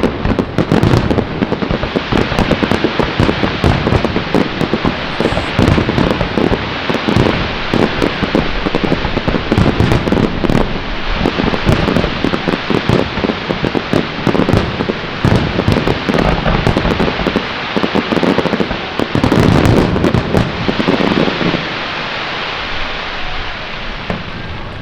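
Dense barrage of firework shells bursting: many overlapping bangs over continuous crackling, thinning out over the last few seconds.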